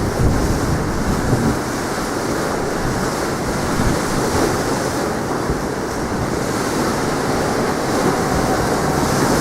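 Sea waves washing onto the shore in strong wind, with wind buffeting the microphone as a steady low rumble.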